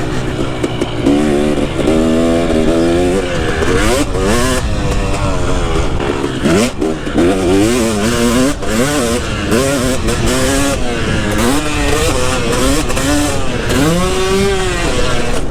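Two-stroke KTM 250 SX motocross engine revving up and down over and over as the bike is ridden, its pitch climbing and dropping every second or two.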